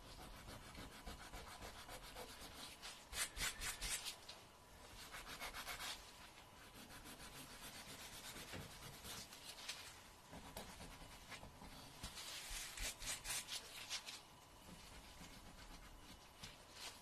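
Fingernails being filed, a dry rasping scrape in bursts of quick back-and-forth strokes with short pauses between them.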